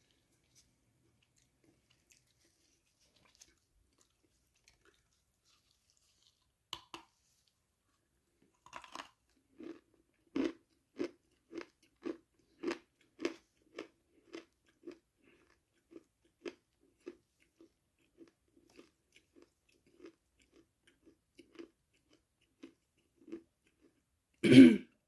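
Close-up eating sounds of a person biting into crunchy food, then chewing in a steady rhythm of roughly two chews a second that gradually gets quieter. There is one much louder short noise near the end.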